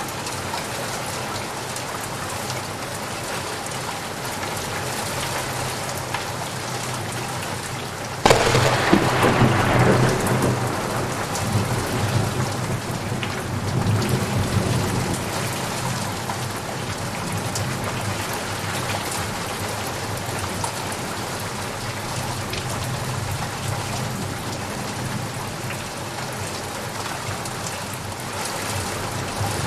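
Steady rain falling, with a sharp thunderclap about eight seconds in that rolls away as rumbling over the next several seconds.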